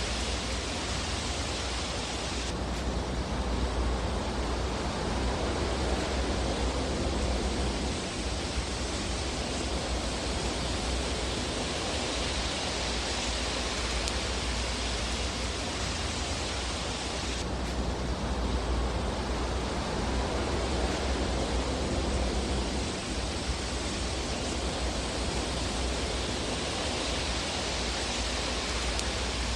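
Fire burning in a fireplace: a steady rushing hiss over a low rumble, with no distinct crackles or pops standing out.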